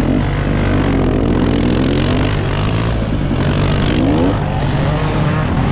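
Small off-road motorbike and quad engines running. One close engine gives a steady low drone, while another's revs rise and fall over it.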